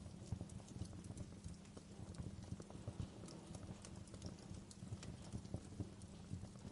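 Wood fire crackling in a fireplace: a steady low rumble of burning logs with frequent small, irregular pops and snaps.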